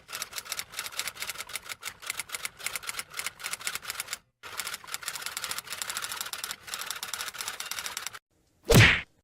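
Typewriter sound effect: rapid, uneven key clacks with a brief pause about halfway, stopping shortly before a single short, loud burst of noise near the end.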